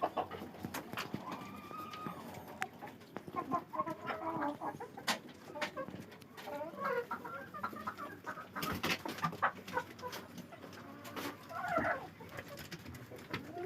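Domestic chickens clucking on and off, with a few sharp clicks or knocks.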